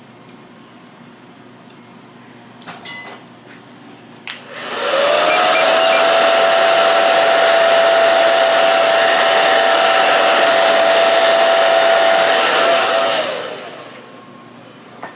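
Hair dryer clicked on, its motor whining up to a steady pitch with a loud rush of air for about eight seconds, then switched off and winding down. A short rattle and a click come just before it starts.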